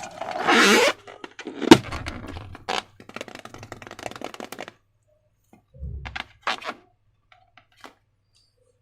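Slime being handled with a balloon: crackling, scraping noise with a sharp snap about two seconds in, then scattered clicks and a soft low thump.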